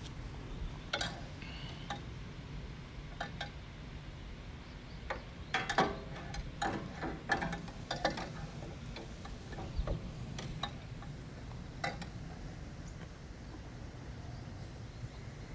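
Irregular metallic clicks and knocks from hands and tools working on a tractor's carburetor, clustered in the middle, over a low steady rumble.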